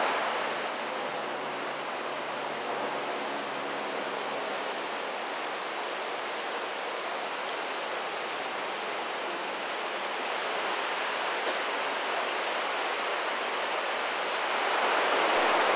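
Steady rushing of a mountain river, an even roar of water that swells slightly near the end.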